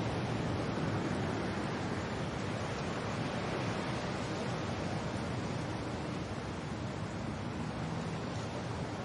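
Wind and rain: a steady, even rushing noise with no single drops or gusts standing out.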